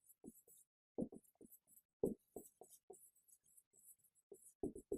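Faint, short taps and knocks coming irregularly, several a second.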